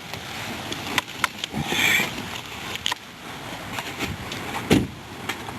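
Several short clicks and knocks over a steady low background rush, with a brief soft hiss about two seconds in; no engine is running.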